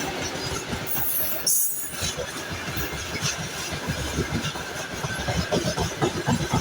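Freight train of gondola wagons rolling past, its wheels knocking and clacking over the rail joints.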